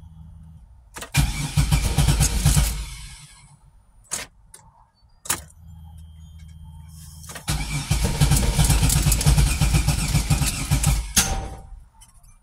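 A car engine cranking on its starter twice, about two seconds the first time and nearly four the second, without catching. It is a hard start on E85 fuel that sounds like it's backfiring. A steady low hum and sharp clicks come before each attempt.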